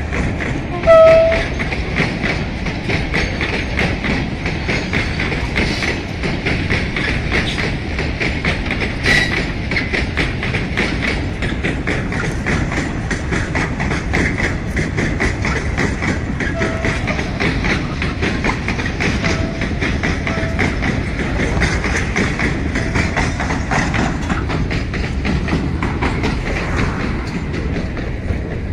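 Long phosphate freight train of loaded hopper wagons rolling past, its wheels clicking steadily over the rail joints. A short, loud high tone sounds about a second in.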